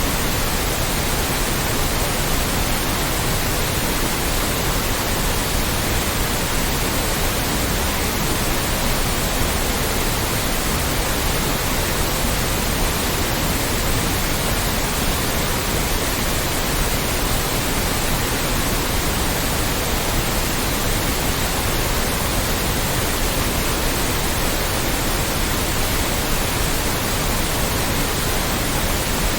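Loud, steady synthetic noise, an even hiss across the whole range with no changes.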